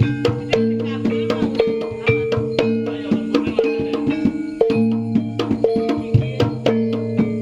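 Jaranan gamelan music played live by a percussion ensemble: quick drum strokes over steady, ringing pitched tones.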